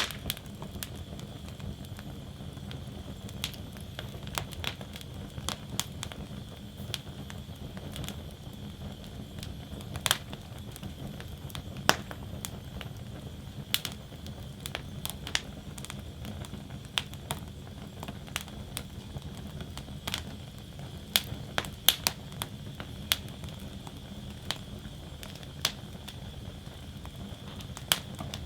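Wood fire burning in a steel fire basket: irregular sharp pops and crackles from the burning logs over a steady low rush of the flames.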